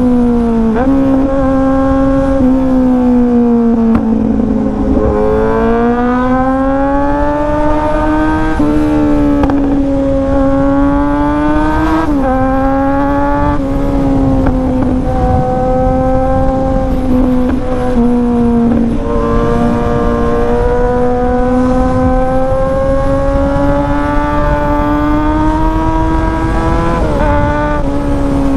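Kawasaki Z800's inline-four engine running hard at high revs, its pitch climbing and falling with the throttle and dropping suddenly several times, as at gear changes.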